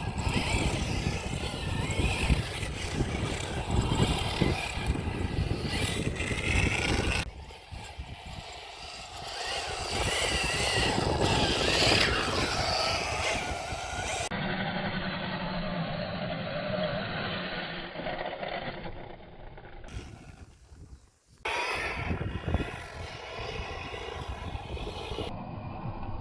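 Electric 1/10-scale RC trophy truck driving off-road: motor whine mixed with rough tyre and ground noise, changing abruptly several times between clips. In some stretches the sound is duller, with a steady low drone.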